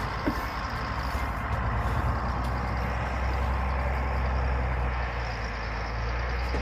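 Steady low rumble of a motor vehicle on the move: engine hum and road noise.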